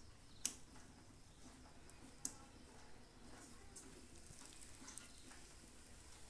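Two sharp clicks, about half a second in and just over two seconds in, then a few faint ticks, over a near-silent hiss: small parts being handled while a microwave oven is put back together.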